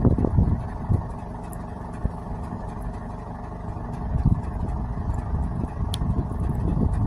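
A vehicle engine running steadily with low rumbling road or wind noise, the rumble swelling at the start and again from about four seconds in.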